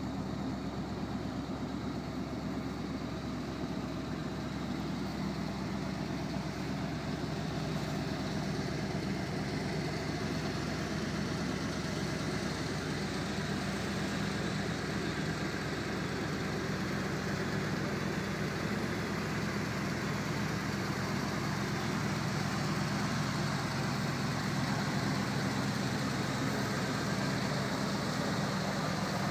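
1979 Chevrolet Corvette Stingray's L82 350 V8 idling steadily, a constant low hum.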